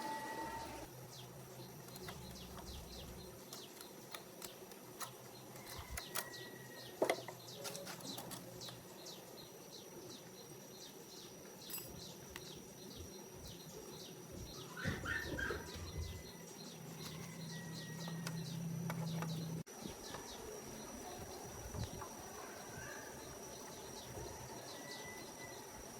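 Outdoor ambience: birds chirping now and then over a steady high insect drone, with scattered light taps and clicks.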